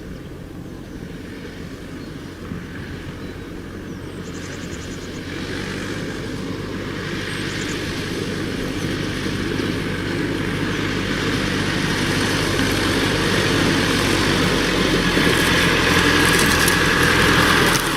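Tractor engine running, growing steadily louder.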